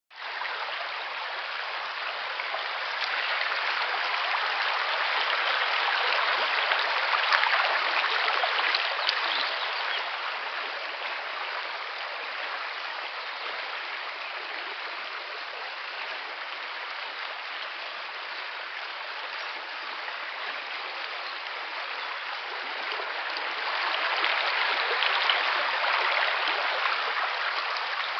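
River water flowing and rushing over stones: a steady, even rush that swells louder twice.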